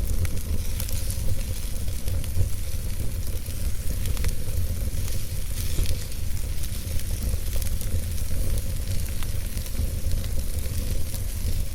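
Campfire burning: a steady hiss with scattered small crackles and pops, over a constant low rumble.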